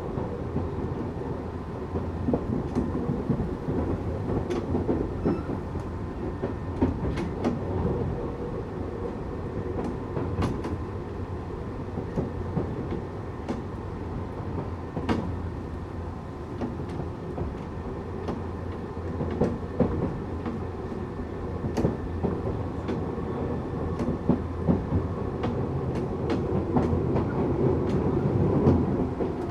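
Tokyu 8500 series electric train with Toyo-made traction motors running, heard from inside the car. A steady low rumble runs throughout, with frequent wheel clicks over rail joints.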